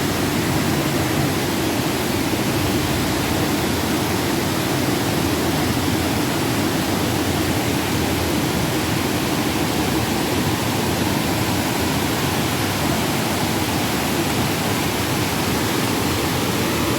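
Steady rushing of flowing river water, an even, loud hiss with a low rumble underneath that keeps on without change.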